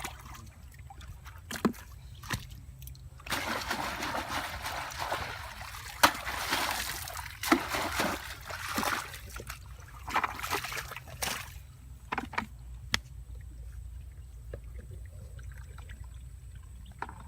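Water splashing and sloshing in uneven bursts from about three seconds in until about eleven seconds, with scattered sharp knocks, over a steady low hum.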